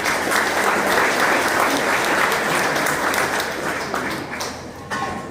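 Crowd applauding, dying away near the end.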